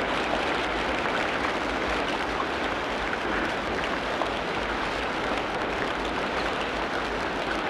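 Steady rain falling on rainforest foliage, an even hiss with no break.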